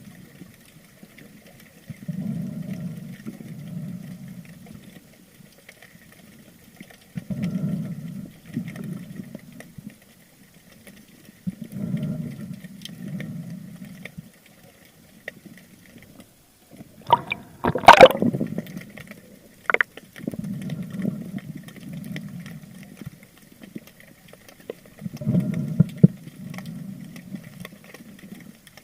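Water rushing and sloshing around an underwater camera on a spearfishing dive, in low swells that come back every four or five seconds. A sudden loud sharp burst comes about eighteen seconds in, with a shorter one a couple of seconds later.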